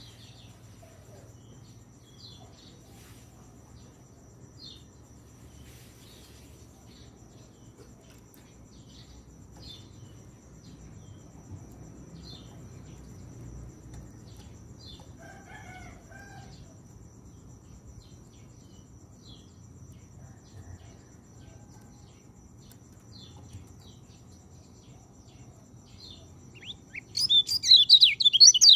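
White-eye (pleci) giving faint, short high chirps spaced every second or so. Near the end it breaks into a loud, rapid twittering song.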